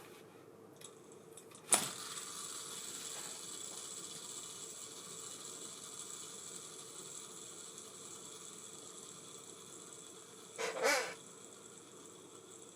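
Ambassadeur 5500C baitcasting reel's spool set spinning with a sharp click, then whirring freely and slowly fading. A brief louder sound about eleven seconds in ends the whirr.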